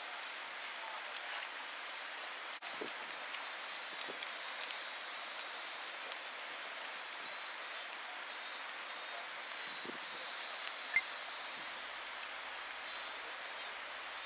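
Outdoor summer ambience: a steady, high-pitched insect chorus that pulses in repeated runs, over an even hiss, with a few faint knocks and one sharp click about eleven seconds in.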